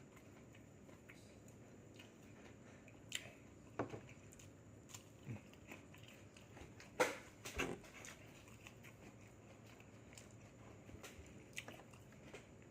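A person eating: faint chewing and biting with scattered short crunchy clicks, the loudest about seven seconds in.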